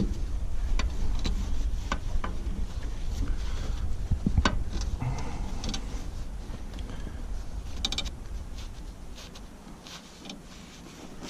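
Wind rumbling on the microphone, easing off after about eight seconds. A few scattered sharp clicks and knocks from hand work on the machine fall through it, with a short run of rapid ticks near the end.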